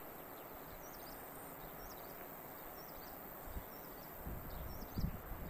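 Small birds giving short, high chirps, repeated every second or so, over a steady outdoor background hiss, with a few low thumps near the end.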